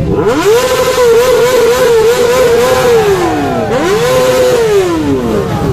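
Superbike engine revved hard: the pitch sweeps up, is held high with a slight wavering for about three seconds, drops, then is revved up once more and falls away near the end.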